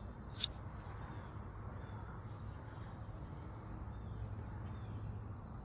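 A single sharp click about half a second in as a pair of stainless steel scissors is handled, over a faint steady low hum.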